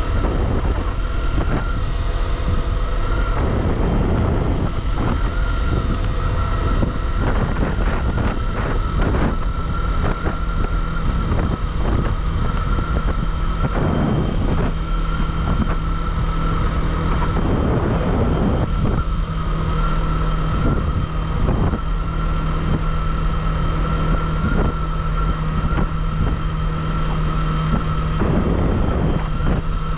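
Motorcycle engine running at road speed, with wind buffeting the microphone and a steady high whine.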